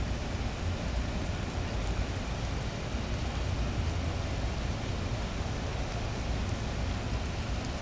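Steady rain falling at night, an even hiss with a heavy low rumble underneath.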